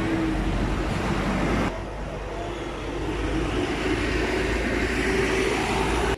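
Road and engine noise from a moving vehicle: a dense rushing noise with a low drone. The noise drops suddenly about a second and a half in, then slowly builds again.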